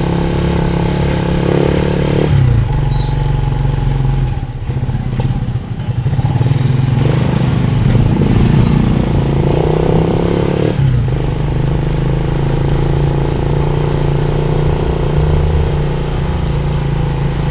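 Motorcycle engine running steadily, its note shifting a few times and dipping briefly about five seconds in.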